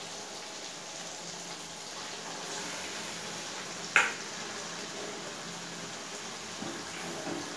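Onion-tomato masala frying in a kadai with a steady low sizzle as marinated chicken pieces are tipped into it, with one sharp clink about four seconds in.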